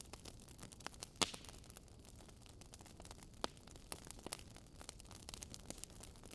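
Campfire crackling: scattered irregular pops and snaps over a steady hiss, the sharpest snap about a second in and another about three and a half seconds in.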